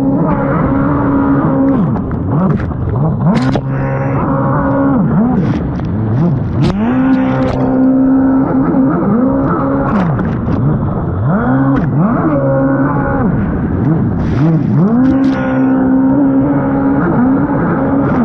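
High-powered stand-up race jet ski's engine, its pitch repeatedly climbing and falling away every couple of seconds as the throttle is banged on and off through turns.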